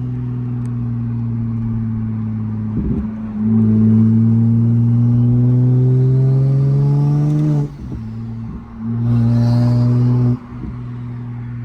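Big-turbo Toyota Supra Mk5's turbocharged B58 straight-six under hard acceleration: after a few seconds of light-throttle running, a full-throttle pull climbs in pitch for about four seconds and cuts off abruptly, followed by a shorter loud burst of throttle that also cuts off sharply before the engine settles back to steady running.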